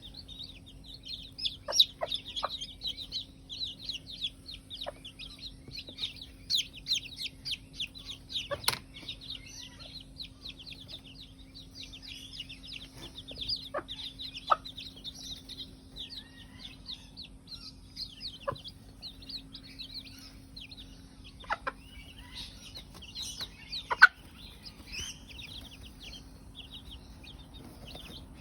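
A brood of newly hatched chicks peeping constantly, many short high downward cheeps overlapping. Scattered sharp knocks come through now and then, the loudest about three-quarters of the way in, over a faint steady low hum.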